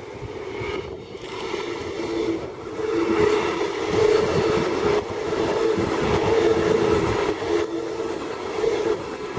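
Queensland Rail electric suburban train running past along the platform, its cars' wheels clattering over the track under a steady hum, loudest in the middle as the cars go by.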